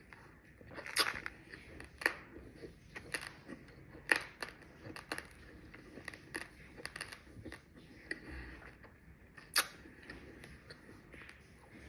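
Raw, uncooked rice grains being crunched and chewed: irregular sharp cracks and crackles, the loudest about a second in, at two and four seconds, and near the end.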